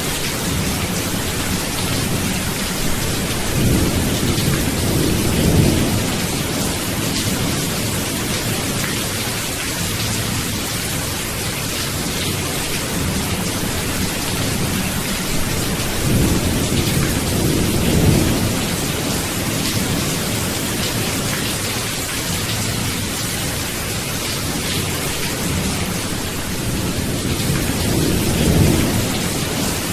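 Steady rain with thunder rumbling low three times: a few seconds in, about midway, and near the end.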